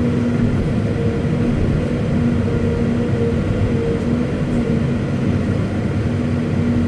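Caterpillar 329E hydraulic excavator's diesel engine running at steady revs, a constant droning hum over a rumble.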